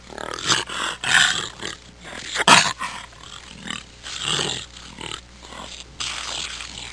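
Jaguar growling: a run of rough, noisy growls and snarls that rise and fall at irregular intervals, with a sharp click about two and a half seconds in.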